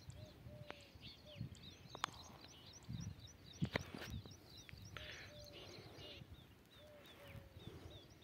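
Faint birdsong: many short, high chirps repeating several times a second, with a lower note recurring now and then. A few brief bumps are scattered through it.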